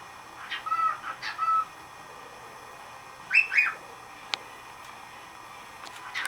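Young male lutino cockatiel whistling its male song: a short run of warbling whistled notes, then about three seconds in two louder, higher whistles. A single sharp click about a second later.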